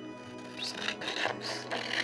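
Pencil scratching and rubbing over paper in short irregular strokes from about half a second in, while transferring a graphite-backed design onto a lino block, over soft background music.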